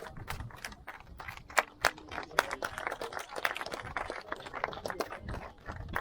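Scattered hand clapping from a small crowd: irregular separate claps, several a second, rather than a full roar of applause.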